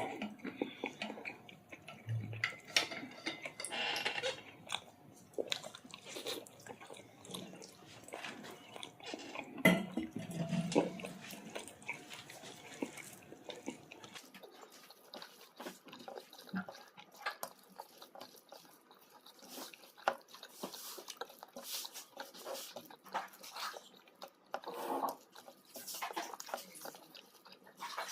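Close-up eating sounds of a person chewing chicken curry with roti and rice: wet mouth clicks and smacks, irregular and repeated throughout, with a few louder bites or handling sounds about ten seconds in.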